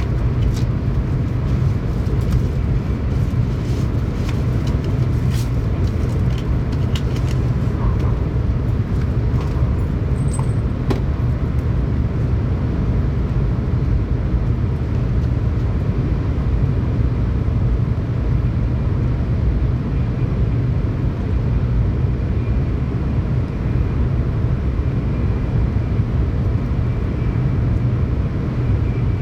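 Steady running noise inside a Tokaido Shinkansen passenger car at speed: a deep, even rumble, with a few faint clicks in the first ten seconds or so.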